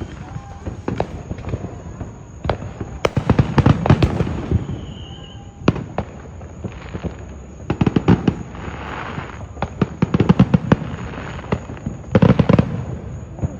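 Neighbourhood consumer fireworks going off: several clusters of rapid crackling pops with short gaps between them, the densest about three to four seconds in and again near the end.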